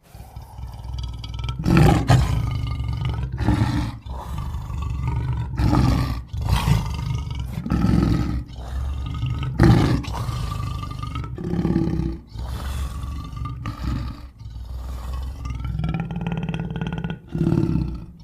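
Designed creature sound effect for a fictional gorilla-giraffe hybrid: a string of loud roars and growls, a new one every second or two, over a steady low drone.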